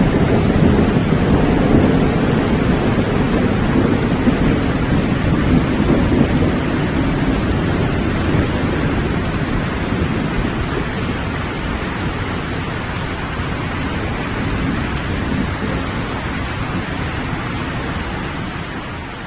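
Steady rain with a low rolling thunder rumble, heaviest in the first several seconds and slowly dying away, the whole storm gradually fading down near the end.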